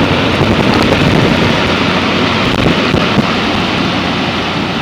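Air-conditioner condensing units running: a steady rush of condenser fan air over a low, even compressor hum.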